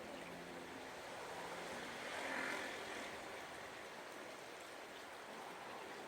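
Steady rush of heavy rain, swelling briefly about two seconds in.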